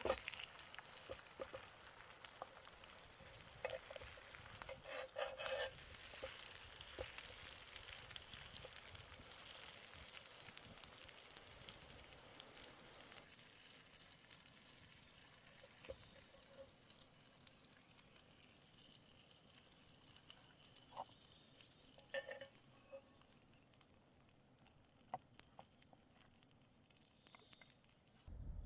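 Food frying in a pan over a campfire: a faint sizzle full of small pops and crackles, thinning out and getting quieter about halfway through.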